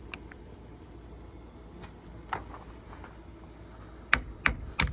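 Hand tool working at a battery terminal: a few scattered sharp clicks, then about four seconds in a quick run of sharp clicks, roughly three a second.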